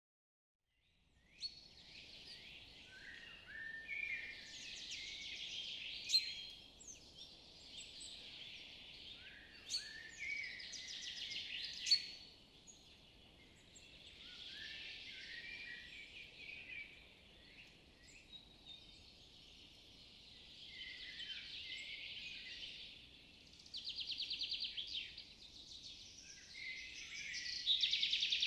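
Birds chirping and singing in phrases a few seconds long, with short falling notes, a fast trill near the end and a few sharp clicks, over a faint outdoor hush.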